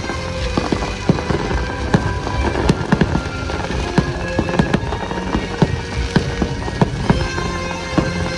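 Fireworks going off in rapid, irregular bangs and crackles, several a second, over the music of a fireworks show.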